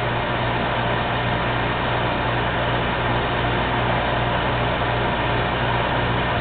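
DrizAir 1200 commercial refrigerant dehumidifier running steadily with its pump purge selected: an even fan whoosh over a low, constant hum.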